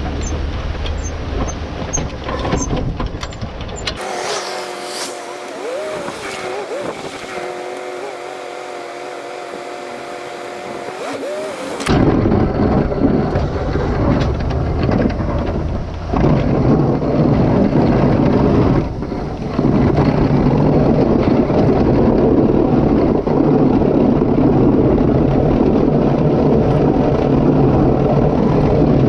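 Vehicle engine running loudly with a deep rumble. Partway through, the sound turns thin for several seconds, a few steady tones wavering slightly in pitch, before the heavy engine rumble returns louder.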